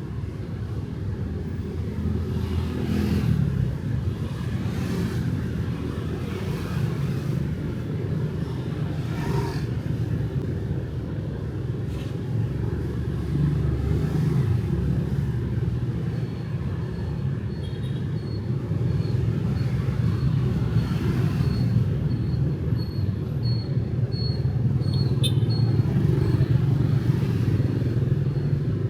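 City street traffic with motorbikes and cars passing: a continuous low rumble that swells and fades as vehicles go by. A faint, thin high tone sounds through the second half.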